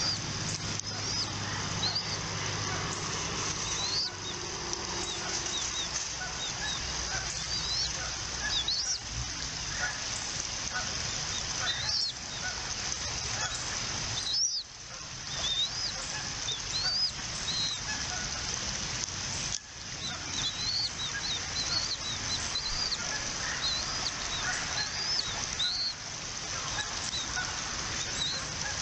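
Repeated short, high-pitched bird chirps, many with a quick upward hook, over a steady background hiss.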